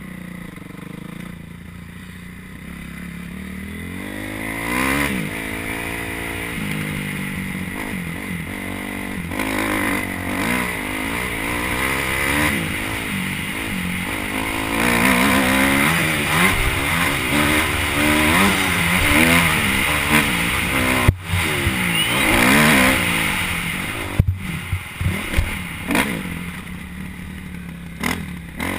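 Motocross dirt bike engine revving up and down over and over as it is ridden hard round the track, with steady wind hiss and a few sharp knocks in the second half.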